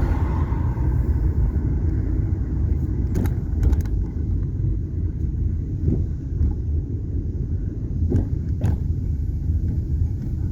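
A car driving: steady low road and engine rumble, with a few light clicks.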